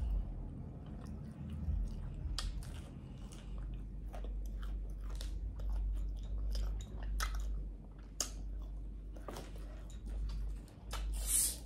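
Close-up chewing and smacking of fried pork chop, many short wet mouth clicks. Near the end, a short hiss as a bottle of sparkling flavoured water is twisted open.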